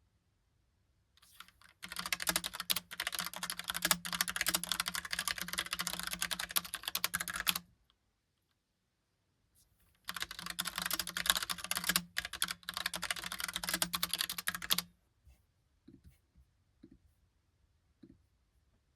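Logicool Pop Keys typewriter-style mechanical keyboard being typed on quickly. There are two runs of rapid key clicks of about five to six seconds each, split by a pause of about two seconds, then a few isolated clicks near the end.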